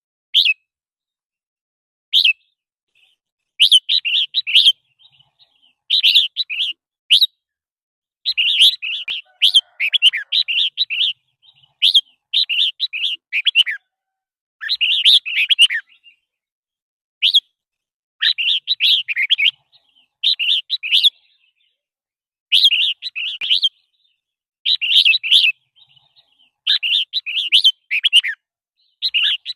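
Red-whiskered bulbul singing: short, bright chattering phrases of half a second to two seconds, repeated over and over with brief pauses between.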